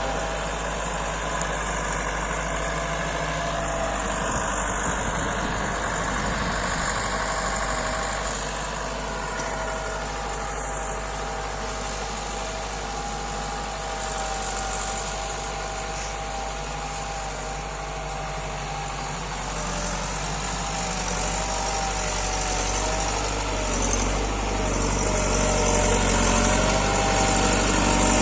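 New Holland Al-Ghazi tractor engine running steadily, getting louder over the last few seconds.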